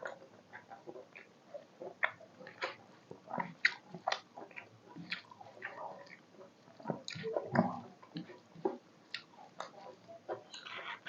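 Close-up chewing and wet mouth sounds of someone eating rice with chicken curry: an irregular string of short smacks and clicks, with a louder cluster about two-thirds of the way through.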